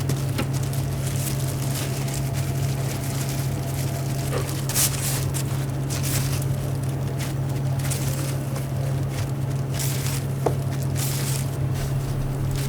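Hot oil crackling in a deep fryer, irregular sharp crackles and clicks over a steady low hum of kitchen equipment.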